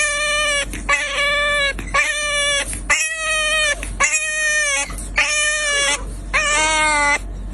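A dog whining: about seven long, high-pitched cries of just under a second each, one after another, over a steady low hum.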